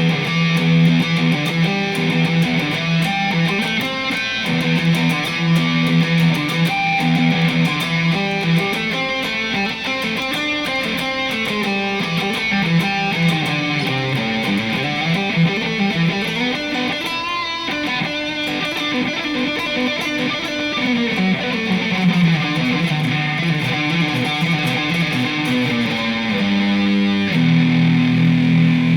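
Distorted electric guitar played through its neck-position ceramic EMG 81 humbucker, with a heavy, bass-rich tone: held low chords at the start, busy riffing and runs through the middle, then a slide down into another held low chord near the end.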